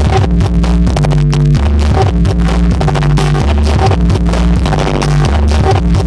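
Loud electronic dance music with a heavy, stepping bass line and a steady beat, played through a large outdoor sound system under test.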